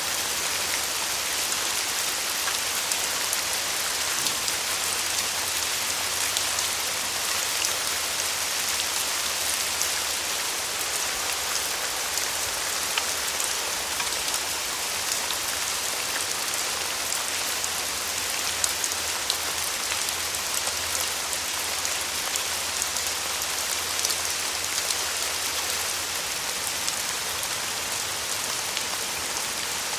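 Steady rain falling on a surface, a dense even hiss with many fine drop ticks.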